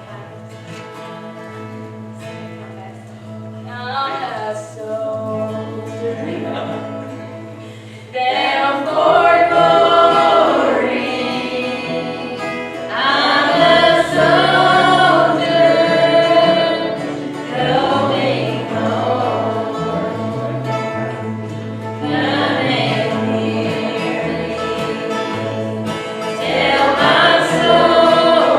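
Gospel music: an instrumental lead-in, then a choir comes in singing about eight seconds in, in long phrases over the accompaniment.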